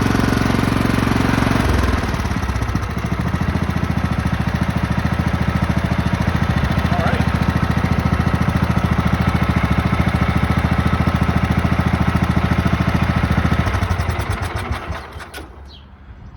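Craftsman lawn tractor's 15.5 hp overhead-valve engine running fast, dropping to a slower, lower putter about two seconds in, then running steadily before being shut off near the end and winding down to a stop.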